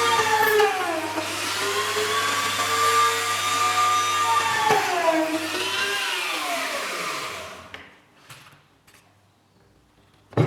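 Small electric motor running with a whine that dips in pitch twice and recovers, then winds down and stops about seven and a half seconds in. A few faint clicks follow.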